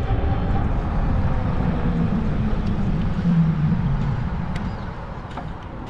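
Riding noise from a fat-tire e-bike on the move: low wind rumble on the microphone with tyre and road noise. It eases off over the last couple of seconds.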